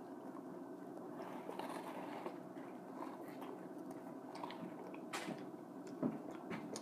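Close-up chewing and biting of food, wet mouth sounds with a few sharp smacks or clicks, the loudest about six seconds in.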